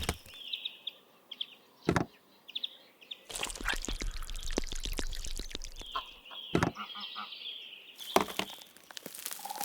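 Birds chirping in short repeated calls, broken by a few sharp knocks and a run of rapid clattering clicks in the middle.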